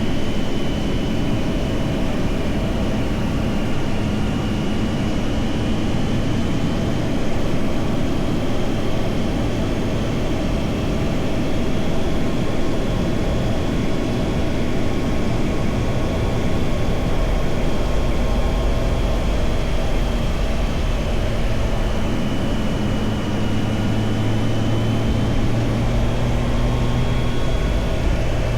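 2025 Triumph Tiger Sport 660's three-cylinder engine running steadily under way, its pitch drifting slowly up and down, with wind rushing over the motorcycle.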